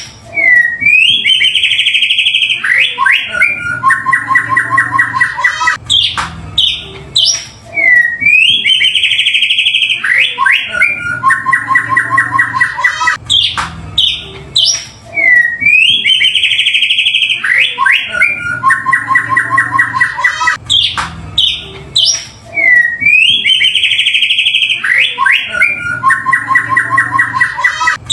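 Looped recording of a white-rumped shama's song, the same phrase repeating about every seven and a half seconds. Each phrase is a loud, buzzy high trill followed by a fast stutter of repeated lower notes. It is a lure track, played to provoke a caged shama into singing.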